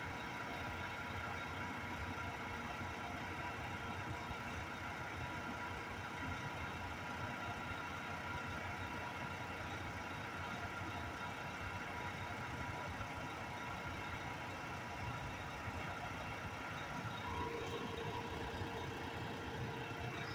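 Garbage truck engine idling steadily, with a faint steady whine over the drone.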